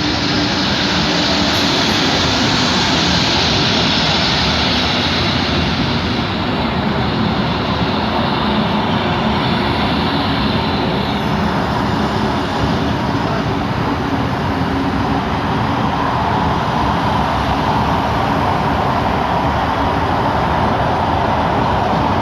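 Abu Qir line train running, a loud steady rumble of wheels and machinery on the track with no break. A high hiss in it eases off about halfway through.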